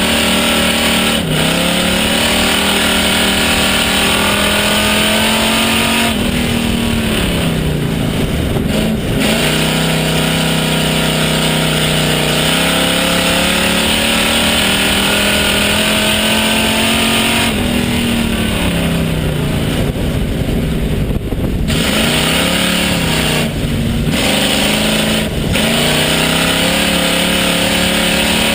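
Pure stock race car engine heard from inside the car, running hard, then easing off and pulling back up twice as it lifts for the turns and powers down the straights. A steady rush of wind and road noise runs under it.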